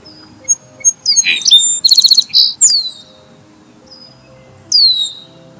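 Songbird singing: sharp high whistled notes sweeping down in pitch, a fast trill about two seconds in, and one more downswept note near the end.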